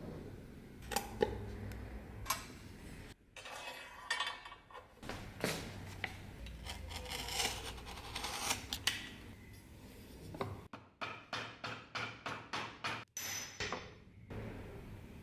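Hand work on the parts of an old sword: metal scraping and rubbing with sharp clinks. Near the end comes a run of about ten short, even scraping strokes, around three a second.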